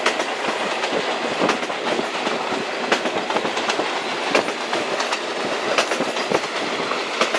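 Tanzania Railways train running, heard from on board: a steady rushing noise with sharp, irregular clacks of the wheels over the rail joints, about one a second.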